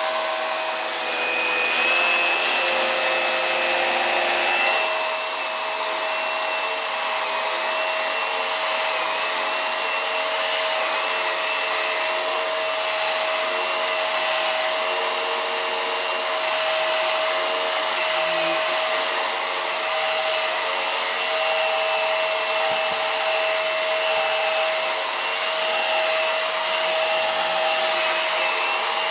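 Hoover PowerDrive Pet bagless upright vacuum cleaner running steadily on carpet, its motor giving a constant whine over the rush of air as it picks up dog fur. The tone shifts slightly about five seconds in.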